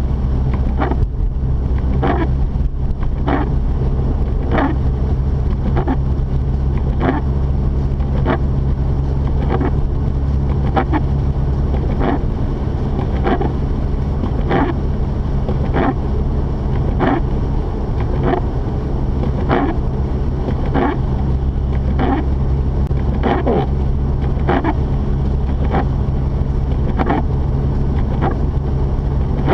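Inside a Mazda RX-8's cabin, a steady low drone of the Renesis rotary engine and tyres on a snowy road. Over it a short swish repeats evenly about once a second, the windshield wipers sweeping.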